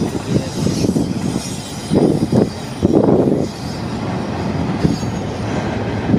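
Freight train cars rolling past close by, a steady rumble of wheels on rail with faint high wheel squeal. Gusts of wind strike the microphone a few times.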